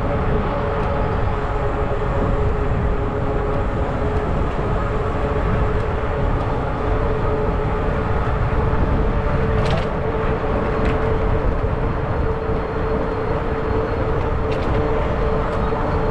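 Riding noise from a 20-inch fat-tire e-bike rolling along: wind buffeting the microphone and tyre rumble, with an even hum that holds one pitch. A few faint ticks come in the second half.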